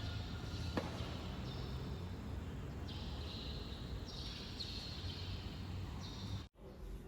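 Outdoor ambient noise: a steady low rumble with repeated high chirring calls, each lasting about half a second to a second, and a single click about a second in.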